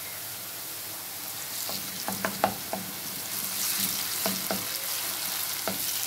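Chopped onions, green chillies and crushed garlic sizzling in hot oil in a nonstick frying pan. A wooden spoon knocks and scrapes against the pan as the mixture is stirred from about two seconds in, and the sizzle grows louder a little after three seconds.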